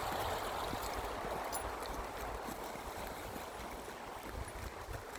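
Flowing river water: a steady rushing that slowly grows fainter.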